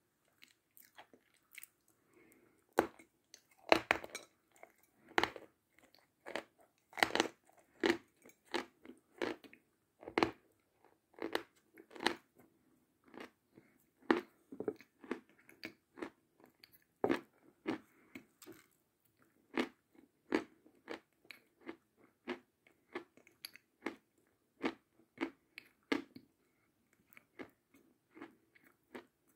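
A person chewing a chunk of chalk: a long string of sharp, dry crunches, roughly one a second, loudest in the first half.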